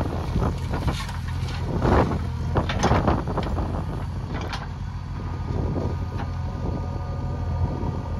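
Backhoe loader's diesel engine running steadily, with several short noisy bursts over it in the first half.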